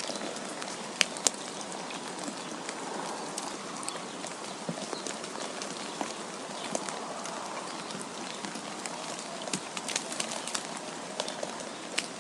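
Steady hiss of wind and falling snow, scattered with irregular sharp ticks of ice or drops striking a surface, two louder ones about a second in.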